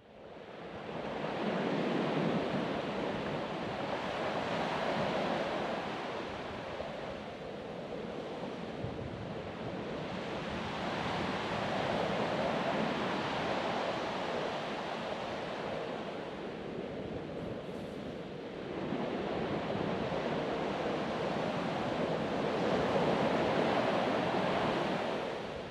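Ocean surf breaking and washing onto a beach, a steady rushing that swells and eases every few seconds.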